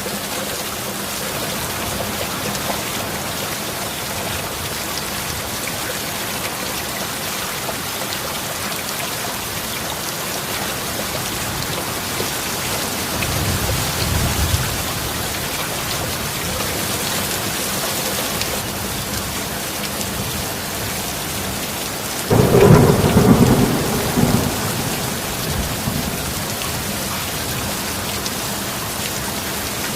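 Steady rain, with a low roll of thunder about halfway through. About three quarters of the way in comes a sudden loud thunderclap that rumbles away over a couple of seconds.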